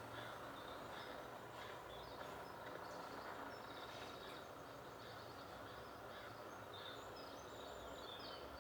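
Faint steady background noise, with a few short bird chirps near the end.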